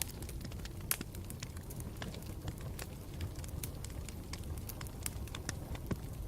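Campfire burning with a steady low rumble and frequent irregular crackles and pops, one sharper pop about a second in.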